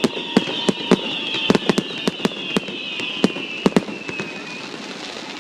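A fireworks display: rapid sharp bangs and crackling, with several falling whistles over them. The bangs thin out and the whistles fade away about four seconds in.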